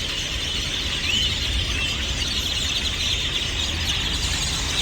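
A large flock of blackbirds chattering: a dense mass of overlapping chirps and squeaks, with a steady low rumble underneath.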